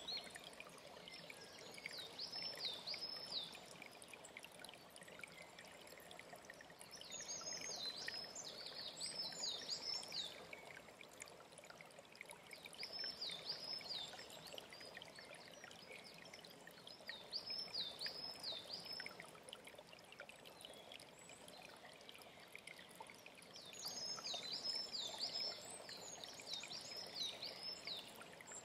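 A small songbird sings short phrases of repeated high, swooping notes, a phrase every five seconds or so, over the steady rush of a mountain stream.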